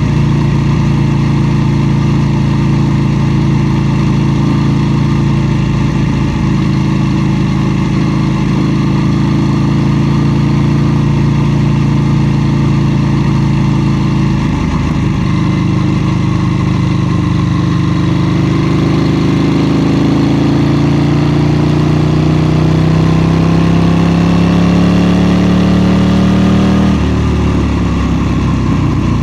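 KTM 790 Duke's parallel-twin engine under way, holding a steady note, then climbing through the revs with a rising pitch from about two-thirds of the way in. The note drops sharply near the end and settles lower again.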